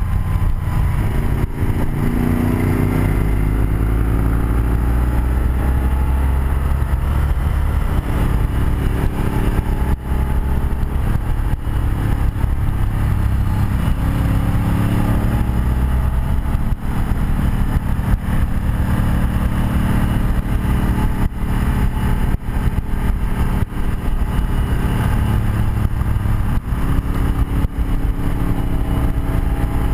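1984 BMW R100RS's air-cooled flat-twin engine on the move, its pitch climbing several times as it accelerates and dropping as it eases off, over a steady rush of wind noise.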